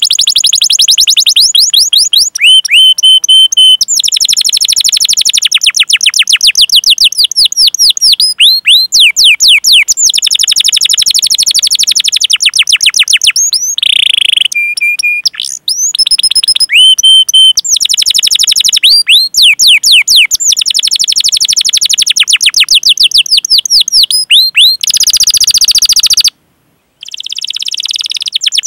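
Domestic canary singing long, very fast rolling trills of repeated high chirps, broken by a few short held whistled notes. The song cuts out briefly about 26 seconds in, then resumes more softly.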